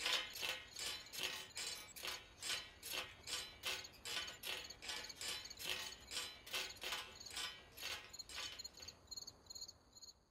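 Faint crickets chirping in a steady rhythm, about three chirps a second, as night ambience; the chirping fades out near the end.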